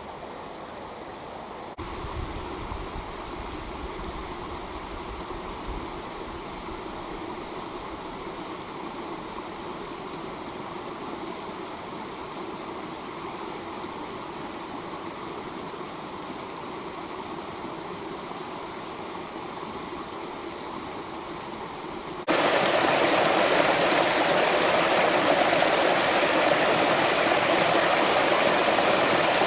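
Creek water rushing and gurgling over stones in a steady stream. About two-thirds of the way through, the water abruptly becomes much louder and fuller.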